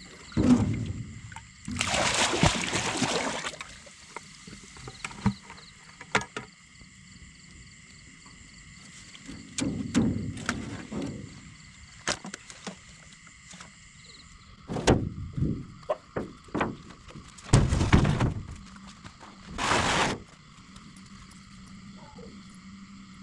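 Paddle strokes and water splashing around a small boat, coming irregularly in several bursts, the largest a couple of seconds in and near the end. Under them runs a steady chorus of night insects.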